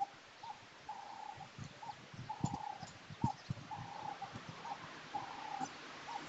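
A bird calling over and over: a regular run of notes at one steady mid pitch, short notes alternating with longer drawn-out ones. Low muffled thumps on the microphone sound beneath it.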